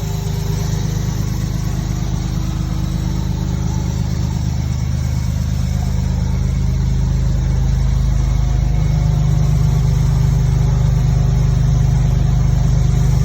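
Toyota Supra's 3-litre 2JZ-GTE twin-turbo straight-six running at a steady idle on its first run after six years laid up, getting a little louder about two-thirds of the way through.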